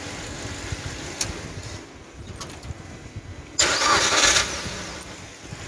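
Suzuki New Carry's four-cylinder petrol engine running at idle after a test start, its long-cranking fault cured by a new crankshaft position (CKP) sensor. A brief loud rushing noise cuts in about three and a half seconds in.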